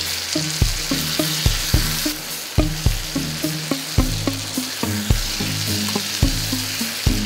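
Chicken curry sizzling in oil in a metal pan as a spoon stirs it, a steady frying hiss. Background music with a steady beat plays along.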